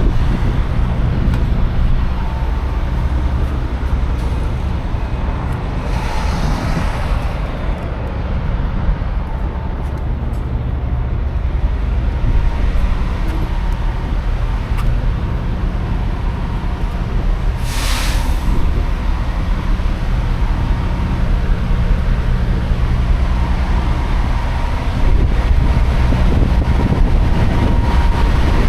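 Semi-truck running at road speed, heard from inside the cab: a steady low engine and road drone. A short hiss stands out about eighteen seconds in.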